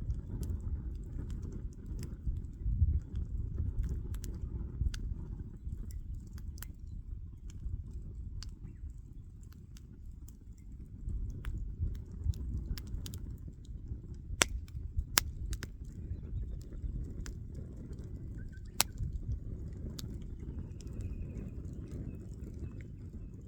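Campfire burning: irregular sharp pops and snaps of burning wood over a steady low rumble.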